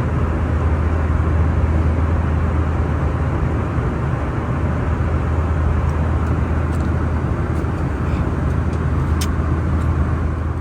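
Steady low rumble and hiss of a moving vehicle heard from inside its cabin, with a strong low hum and a few faint clicks.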